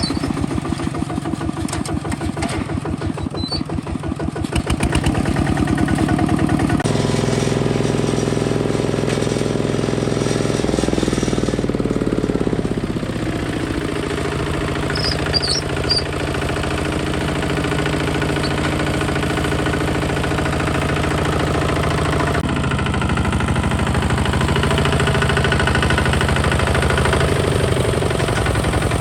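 Kubota ZT 155 DI walking tractor's single-cylinder diesel engine running, its separate firing beats at first, speeding up around five seconds in. It then settles to a steadier, faster run, shifting engine speed a few times.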